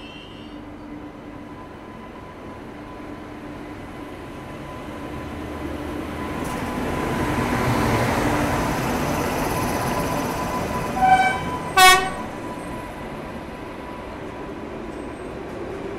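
Train rumbling, swelling for several seconds and then easing as trains pass close by, followed by two short blasts of an Indian Railways locomotive horn less than a second apart, the second louder.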